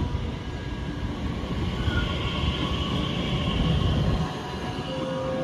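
Electric regional multiple unit rolling slowly along the platform as it brakes to a stop, a low rumble of wheels and running gear with a faint steady whine. The rumble drops away about four seconds in, and a steady tone starts near the end.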